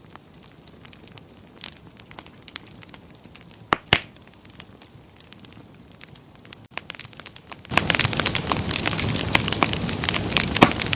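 Wood fire crackling with sparse small pops, and two loud pops about four seconds in. Near the end the sound jumps suddenly much louder into dense crackling and hiss.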